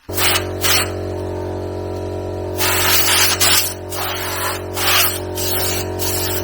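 A machine starts abruptly and runs with a steady low hum, with loud harsh hissing or grinding bursts coming and going over it, the longest about two and a half seconds in.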